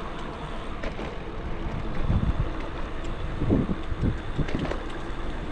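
Wind buffeting the microphone of a moving e-bike over steady riding noise, with stronger low gusts about two seconds in and again around three and a half to four and a half seconds.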